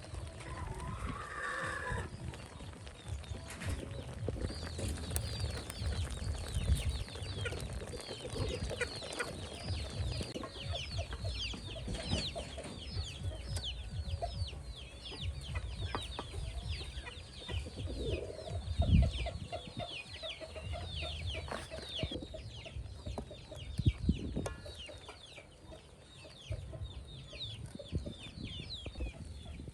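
Birds calling, a long run of rapid, high, falling chirps, over low knocks and handling noise, with two louder thumps in the second half.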